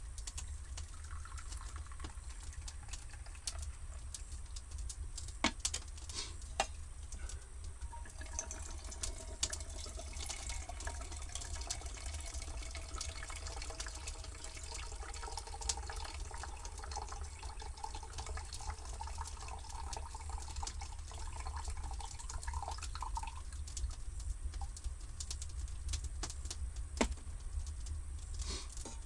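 Water running or pouring into a container, with a faint tone that rises slowly as it goes on, over a steady low rumble and scattered small clicks.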